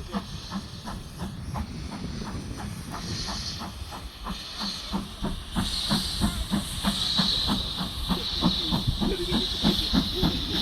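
Steam locomotive working slowly, with an even beat of exhaust chuffs about three a second over a steady hiss of steam. The hiss grows louder about halfway through.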